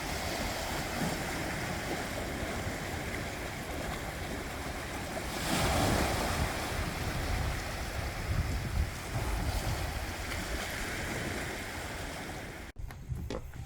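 Sea surf washing steadily onto a beach, one wave swelling loudest about halfway through, with wind buffeting the microphone. Near the end the sound cuts off suddenly and gives way to a quieter scene with a few short, sharp clicks.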